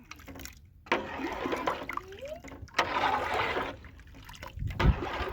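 Water pouring and splashing in two spells of a second or two each, with short breaks between them.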